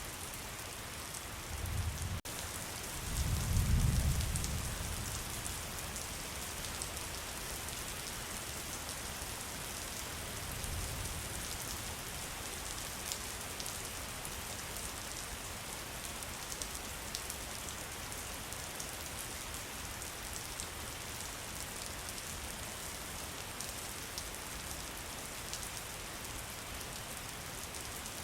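Steady rain falling, a dense even hiss with scattered drips. A low rumble swells about three to four seconds in, and a fainter one comes around ten seconds in.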